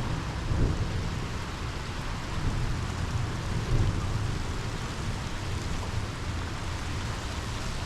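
Monsoon rain falling, a steady hiss, with a low rumble underneath.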